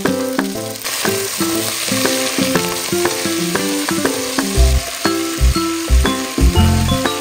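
Diced vegetables sizzling in hot oil in a pot as they are stirred, under background instrumental music of picked notes. A deep bass line comes into the music about halfway through.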